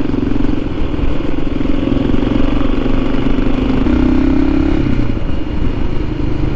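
Motorcycle engine running under way; the engine note rises about four seconds in, then falls back about a second later.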